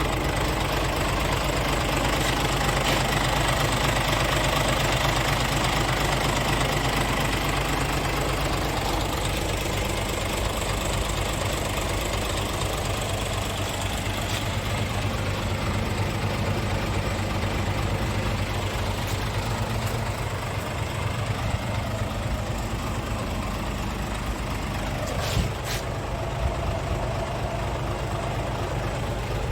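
Scania R450 truck's 13-litre straight-six diesel idling steadily with a diesel clatter, with a couple of short sharp clicks near the end.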